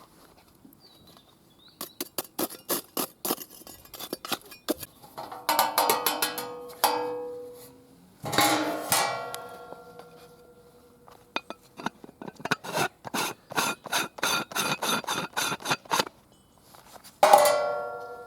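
Metal parts of a Uniflame Fire Grill stainless-steel fire pit clinking and clanging as they are handled. Light metallic taps give way to several ringing clangs, then a run of quick taps, and one loud ringing clang comes near the end.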